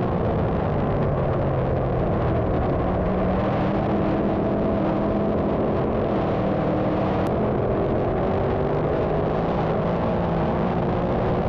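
A field of 358 small-block dirt modified race cars running on the track, many engines sounding at once in a steady din.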